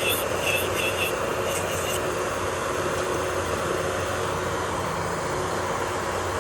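Electric nail drill (e-file) running steadily with a continuous motor hum, with a few short high-pitched chirps in the first couple of seconds.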